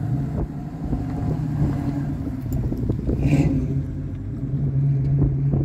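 Engines of a classic Ford Mustang fastback and a late-model Mustang GT rolling in slowly one after the other. A steady deep engine note, loudest near the end as the second car pulls close.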